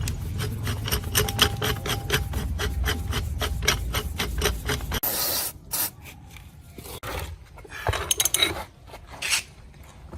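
Hand scrubbing or filing on a metal engine part: rapid back-and-forth rasping strokes that stop about five seconds in, followed by a few scattered scrapes and light knocks.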